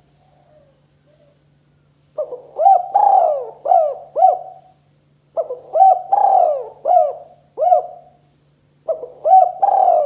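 Spotted dove (tekukur) cooing: three phrases of several short coo notes each, the phrases coming about three seconds apart.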